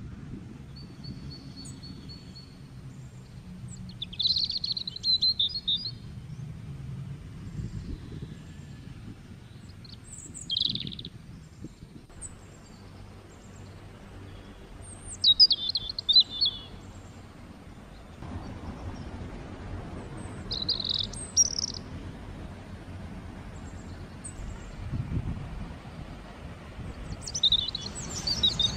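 Songbirds chirping: about five short twittering phrases a few seconds apart, over a steady low outdoor background noise.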